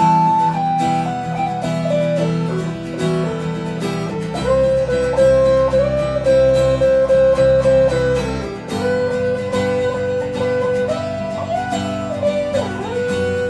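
Instrumental band jam: a rhythmically strummed acoustic guitar under a lead melody of long held notes that slide and bend between pitches.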